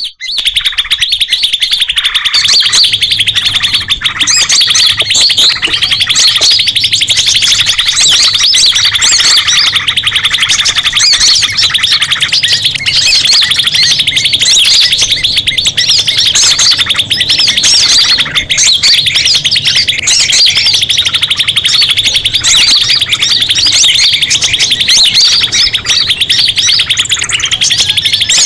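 Bird-trapping lure recording of a noisy chorus of forest birds: dense, rapid, high-pitched chirping and chattering that runs on without a break.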